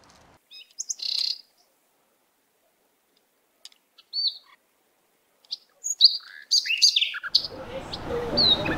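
Small birds chirping: a few short high chirps about a second in and again about four seconds in, then a quick run of several chirps near the end. A steady rushing noise comes in under them shortly before the end.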